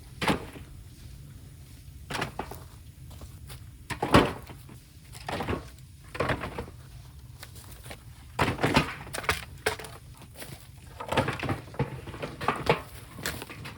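Bamboo cracking and knocking: irregular sharp cracks and thuds, some in quick clusters, about a dozen in all.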